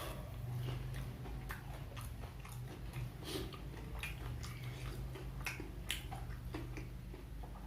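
A person chewing gorengan (Indonesian fried snacks) close to the microphone: irregular mouth clicks and smacks, over a faint steady low hum.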